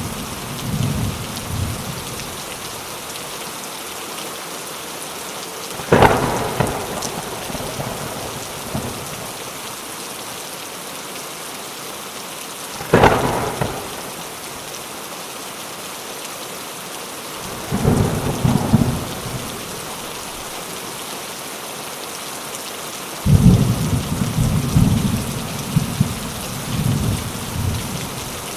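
Steady rain falling, with thunder: two sharp cracks about six and thirteen seconds in, then low rolling rumbles in the second half.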